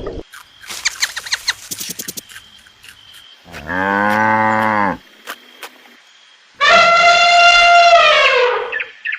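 Two drawn-out animal calls: a low one lasting about a second, then a louder, higher one of about two seconds that drops in pitch at the end. They follow a run of rapid clicks near the start.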